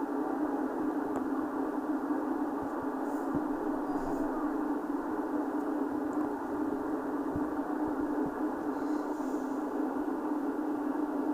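Steady running noise of a high-speed train heard from inside the carriage: an even rush with a sustained low hum and a few faint knocks.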